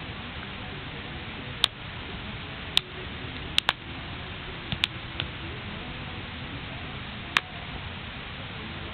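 Wood bonfire burning: a steady rushing hiss with about eight sharp, scattered crackles and pops.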